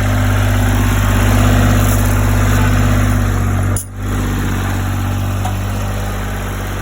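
Old Power King PK 500 tractor engine idling steadily, with a brief dropout just under four seconds in.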